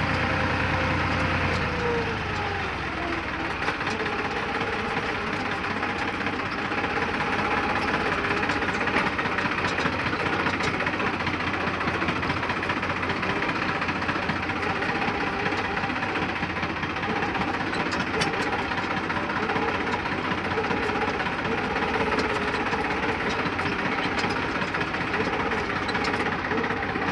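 Deutz-Fahr tractor engine running, its revs dropping about two seconds in, then holding fairly steady with small changes in speed.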